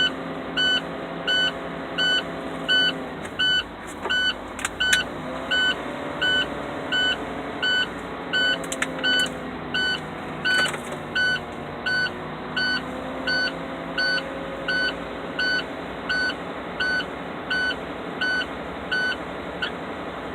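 A semi-truck's low-air-pressure warning buzzer beeps steadily, about three beeps every two seconds, because the air brake system is still below its warning pressure. Underneath, the truck's diesel engine runs at a raised idle to build air back up. The engine speed dips and recovers a couple of times.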